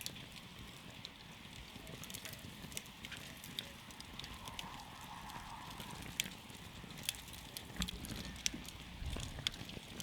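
Wood campfire crackling: irregular sharp pops and snaps over a soft, steady hiss of burning.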